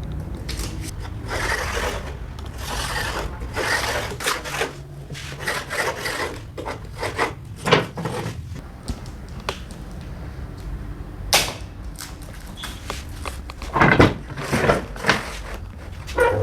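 Wood being handled and worked: irregular knocks and clatter with short scraping bursts, over a steady low hum. One sharp knock stands out about eleven seconds in.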